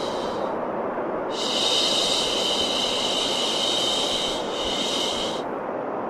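Baby-soothing white noise: a steady rushing hiss with long drawn-out "shhh" shushing sounds repeated over it. One shush fades just after the start, the next begins about a second in and is held for about four seconds, and another starts at the very end.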